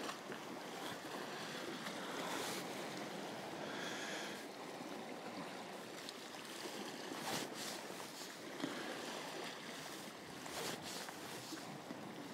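Sea waves washing against a rocky shore with a little wind, a steady rushing noise with a few brief louder moments.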